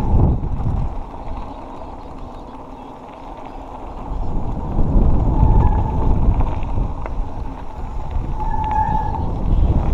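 Mountain bike riding fast down a dirt trail: wind rushing over the microphone with tyres and frame rattling on the ground. It quietens for a few seconds about a second in, then grows loud again, with two short high squeaks, one in the middle and one near the end.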